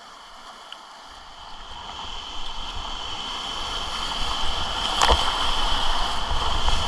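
Whitewater rapids rushing, growing steadily louder, with a single sharp knock about five seconds in.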